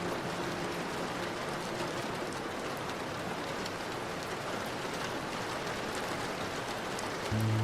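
Steady rain falling, with separate drops ticking now and then. Soft held music tones fade out in the first second or so, and a new low chord comes in near the end.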